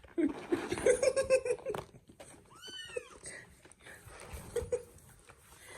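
Kittens mewing: a quick run of short cries in the first two seconds, then a single high, arching mew about three seconds in.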